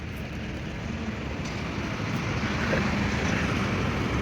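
A heavy machine running steadily with a low hum, growing louder about a second in.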